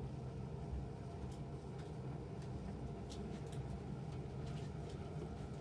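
Quiet room tone with a steady low hum and a handful of faint, scattered light clicks and ticks.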